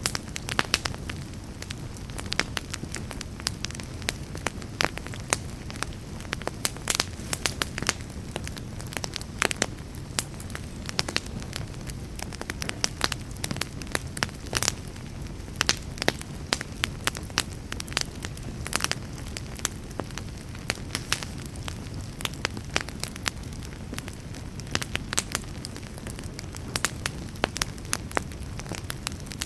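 Wood campfire crackling and popping, with many sharp, irregular snaps over a steady low rush.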